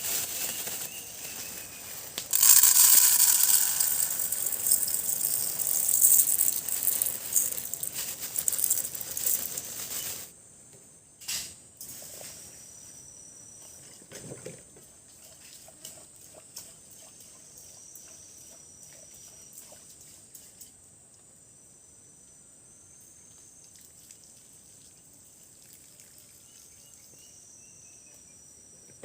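Water pouring and splashing loudly for about ten seconds, then stopping abruptly. After that, a steady high-pitched drone of insects with a few faint knocks and clicks.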